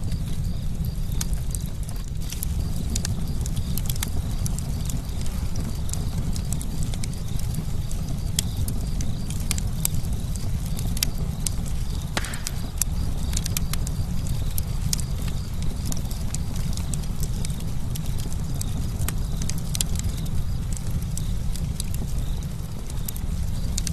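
Campfire burning, crackling with irregular sharp snaps and pops over a steady low rumble.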